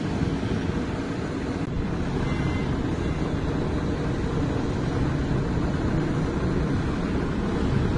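Heavy diesel engine running steadily, a low rumble.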